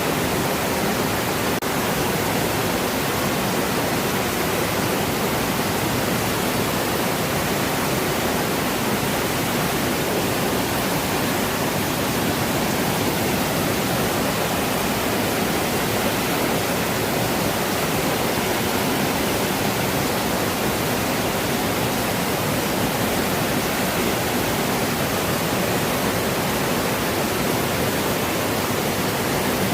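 Waterfall: water rushing steadily, an even hiss-like wash with no breaks or changes.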